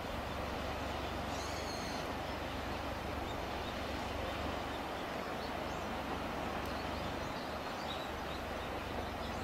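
Steady outdoor background noise, with faint bird calls: a short high call about one and a half seconds in and a few fainter chirps later.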